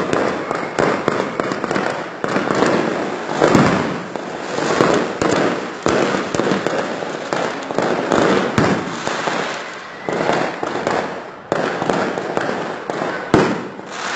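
Fireworks show going off in a continuous barrage: overlapping bangs and crackling, with sharper single reports standing out now and then, one of the loudest near the end.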